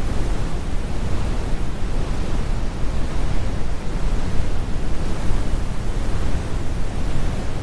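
Steady synthetic brown noise: a deep, even rumble of random noise weighted to the low end with the highs rolled off, unchanging throughout.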